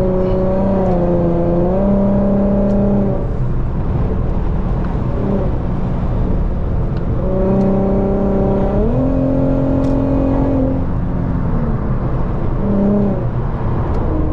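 A car's engine and road rumble while driving at highway speed. The engine note holds steady for a few seconds at a time, drops in pitch right at the start, fades into the rumble for a few seconds, then comes back and rises and falls again as the throttle changes.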